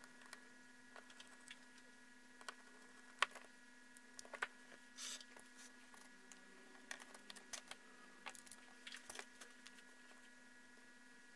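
Faint clicks and taps of small repair tools handling a smartphone's parts, over a steady electrical hum, with one sharper click about three seconds in and a brief scrape about five seconds in.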